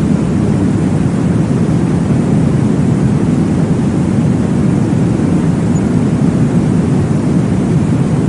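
Steady, deep whooshing noise with no breaks, weighted to the low end like a muffled rumble: a womb-sound track that imitates blood flow in the uterus, made to soothe a baby to sleep.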